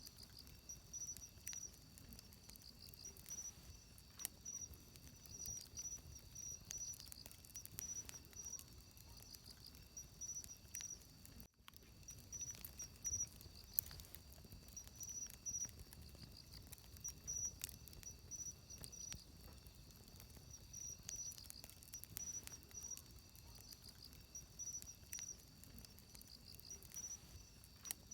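Wood campfire crackling softly, with scattered sharp pops and snaps, over a steady pulsed chirping of insects.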